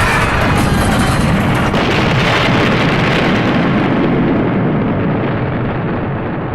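Explosion sound effect: a long, dense rumbling blast that thins out and slowly dies away over the last couple of seconds.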